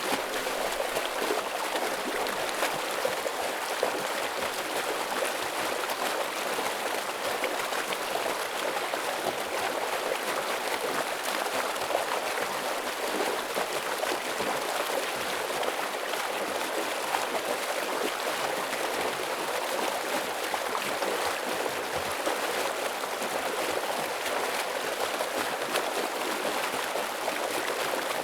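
Heavy stream water rushing and splashing steadily over rocks, a constant full-bodied water noise with no let-up.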